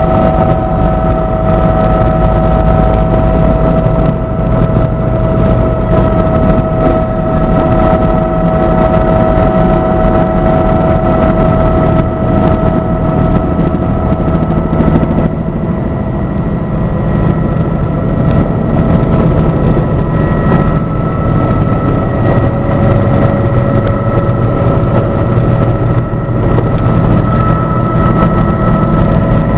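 Helicopter in flight: steady engine and rotor noise with a low rumble and several constant whining tones over it.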